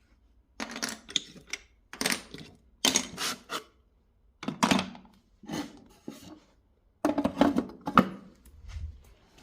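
Small hard toy pieces clacking and clattering together as they are handled, in irregular bunches of sharp clicks about once a second.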